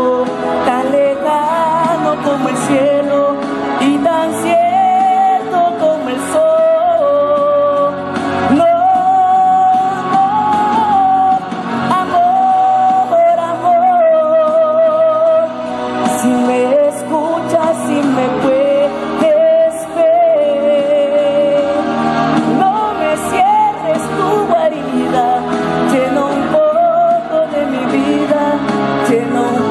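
A solo singer performing a Spanish-language ballad over an accompaniment, the sung melody line held on long notes with a wide vibrato, in the echo of a large hall.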